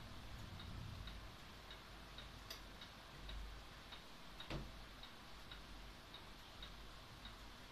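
Faint, regular ticking, a little under two ticks a second, over a low rumble, with two louder clicks about a third and about halfway through.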